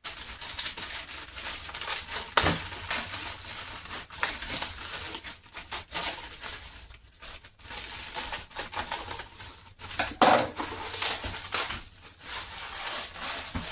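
Plastic food packaging crinkling and rustling as it is handled, with a sharper knock about two and a half seconds in and another about ten seconds in.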